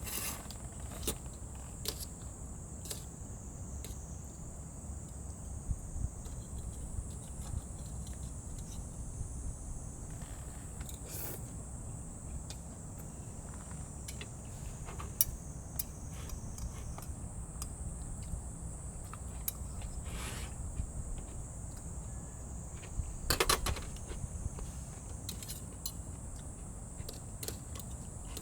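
A steady, high-pitched chorus of summer insects. Scattered light clicks and knocks sound over it, with a short cluster of louder clicks about three-quarters of the way through.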